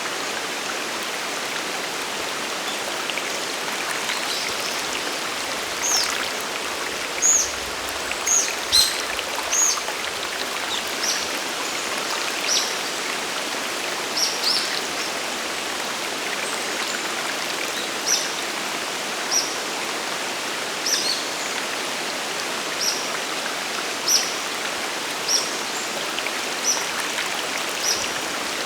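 Steady rush of a waterfall and mountain stream. From about six seconds in, a bird gives short, high chirps about once a second.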